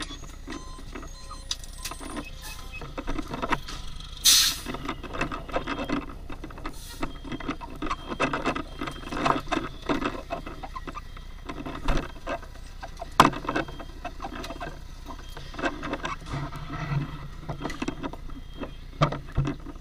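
Fire engine cab on the move: a steady low engine rumble with frequent knocks and clatter of gear, and muffled voices in places.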